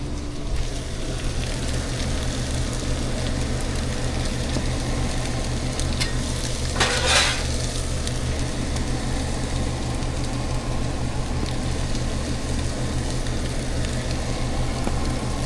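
Food sizzling in a hot pan, with a brief louder surge of sizzling about seven seconds in, over a steady low hum.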